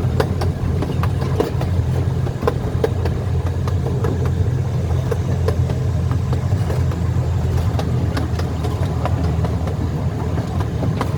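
Zoo train running, heard from aboard a passenger car: a steady low engine drone with irregular clicks and knocks from the wheels and cars.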